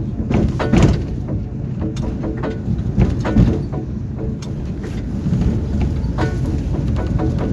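Tram running along the track, heard from inside the car: a steady low rumble of wheels on rails, with several sharp knocks from rail joints.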